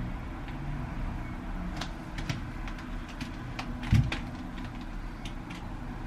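Handling noise in a small room: scattered faint clicks and one soft thump about four seconds in, over a steady low hum.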